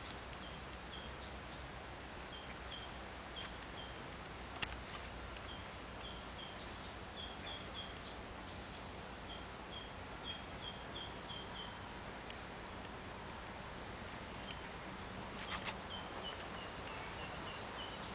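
Outdoor ambience: a bird chirping in short, high, slightly falling notes that come in quick little runs over a steady hiss. A couple of sharp clicks stand out, one about four and a half seconds in and one near the end.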